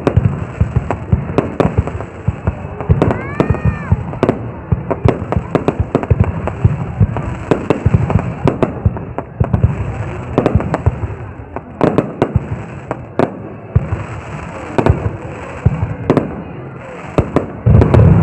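Fireworks display going off: a dense, continuous run of sharp bangs and crackling reports, several loud booms a second.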